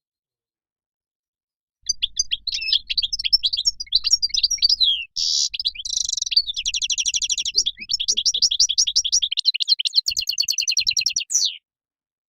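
European goldfinch singing: one long song of quick twittering notes and fast buzzy trills. It starts about two seconds in, breaks briefly near the middle, and stops shortly before the end.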